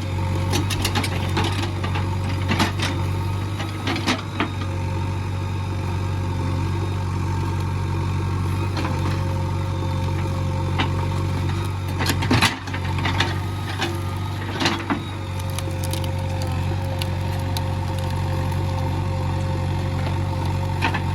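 JCB 3DX backhoe loader's diesel engine running steadily, with sharp metallic clanks and knocks from the working machine now and then, the loudest cluster about twelve seconds in.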